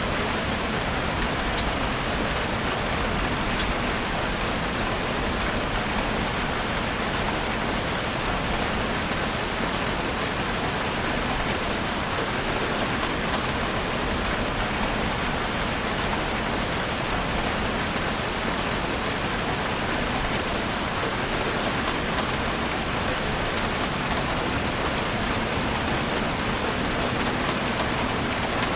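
Heavy rain falling steadily on a roof, a dense even patter of drops without letup.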